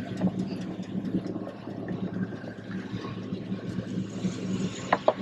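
Nissan Titan pickup's engine idling steadily, with a few light clicks near the end.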